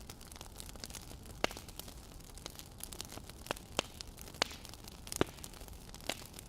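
Wood fire crackling: sharp, irregular pops and snaps about once a second over a steady low hiss.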